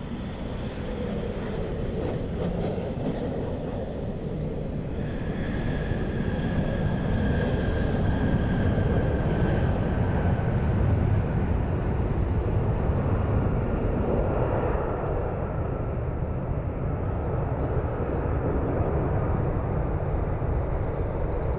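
Jet airliner passing close by, its engines rumbling with a high whine that slowly falls in pitch as it goes past. The sound swells over the first half and then holds.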